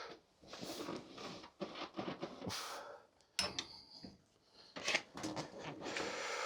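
Hand tools and metal car parts being handled: bursts of rustling and scraping, with a couple of sharp clicks.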